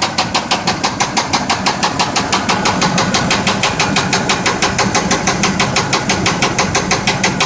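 1992 Buick Roadmaster's 5.7-litre V8 running with a loud, even knock, about five sharp knocks a second: a rod knock from a failed connecting-rod bearing.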